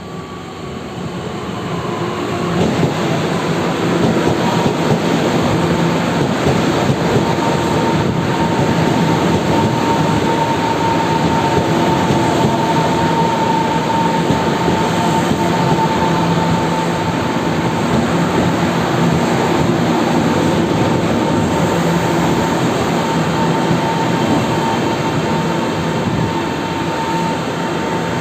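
Taiwan Railways local electric multiple-unit train running into the station and slowing to a stop. It swells over the first few seconds, then holds loud and steady with a clear whine that sinks slightly in pitch as the train brakes.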